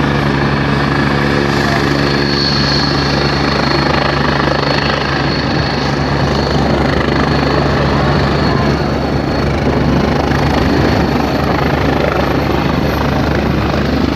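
Helicopter running close by: a loud, steady rotor and engine noise with a high, thin turbine whine over it, and a low hum that fades over the first few seconds.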